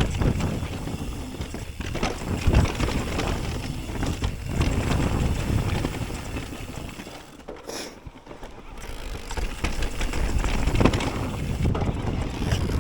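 Mountain bike riding down a rough trail: wind rushing over the camera microphone, tyres on dirt and knocks and rattles over bumps, easing briefly just past the middle.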